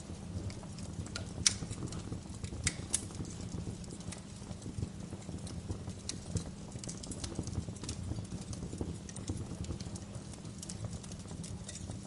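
Wood fire crackling in a fireplace: a low steady rumble of flames with scattered sharp pops, the loudest about one and a half seconds in and two more close to three seconds in.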